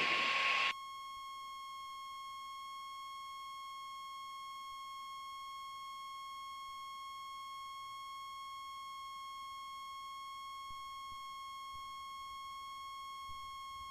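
A steady, high electronic tone held at one pitch without a break, with no engine or cabin noise beneath it.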